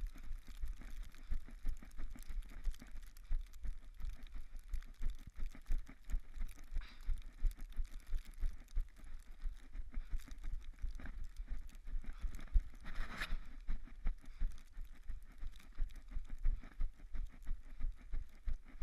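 Steady rhythm of thuds from a person running on a snowy trail while juggling: footfalls and balls landing in the hands, a few per second. There is a brief louder rustle about thirteen seconds in.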